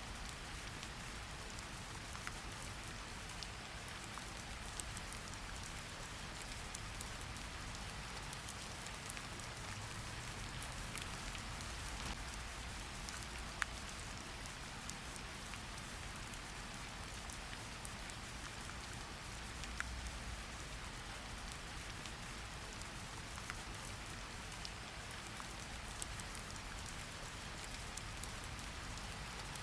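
Steady rain falling, an even hiss with scattered sharp drips and taps of drops landing, one louder tap about halfway through.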